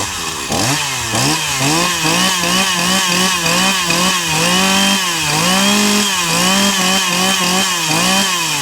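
Two-stroke chainsaw engine being revved over and over while the saw is tuned up, its pitch rising and falling about twice a second, with a couple of longer revs midway. It drops back down near the end.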